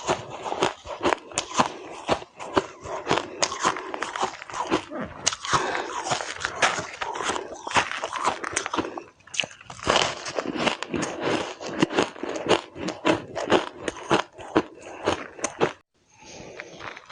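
Close-up crunching and biting of frozen shaved ice: dense, rapid crackling crunches with short pauses between bites. The crunching stops briefly near the end.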